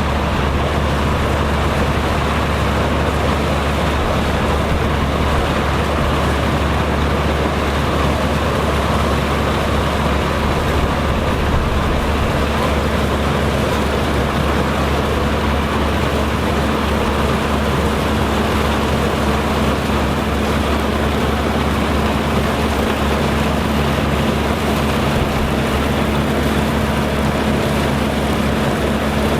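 Farm machinery running: a steady engine drone with a low rumble and an even mechanical noise that holds unchanged.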